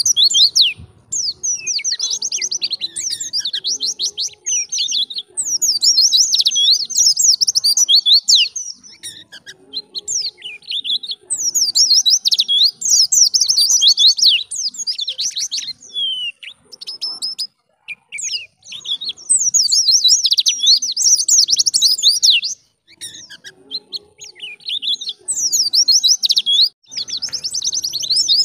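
White-eye (pleci) singing: several-second bursts of fast, high-pitched twittering warble, separated by short pauses.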